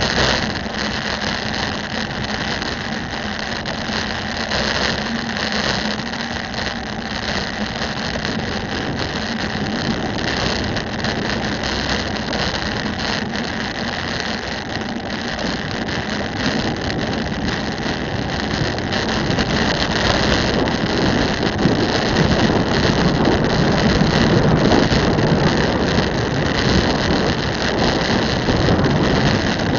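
City road traffic and wind rushing over the microphone of a moving bicycle: a steady noise that grows louder, with more low rumble, about two-thirds of the way through.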